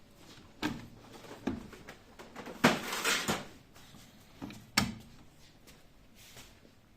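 Knocks and a sliding, rattling scrape from a Hotpoint-Ariston RSM 601 washing machine being handled, as its parts are opened and shut: a few sharp knocks, with a longer scrape near the middle that is the loudest sound.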